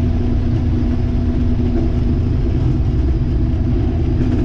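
Combine harvester running while shelling corn: a steady low rumble with a constant hum held on one note.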